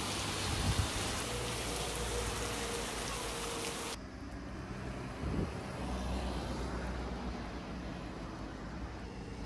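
Steady rain falling as a dense, even hiss. About four seconds in, the sound cuts to a softer, duller rain with a low rumble underneath.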